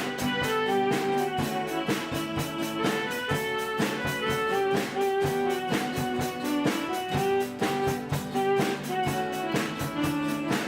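Instrumental music with no singing: guitars strummed to a steady, quick beat under a held melody line.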